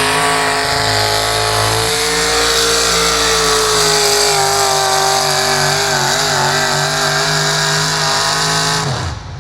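Pulling tractor's engine running hard at high revs under load during a pull. Its pitch holds steady and eases down slightly, then cuts off suddenly near the end.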